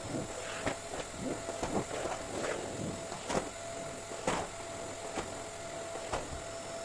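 Steady hum of a small motor with a constant high whine, with irregular clicks and light knocks over it.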